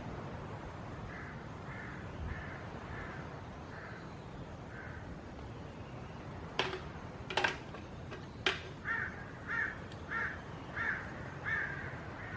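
A crow cawing in evenly spaced repeated calls: a faint run first, then a louder run of about six caws near the end. Three sharp knocks come between the two runs.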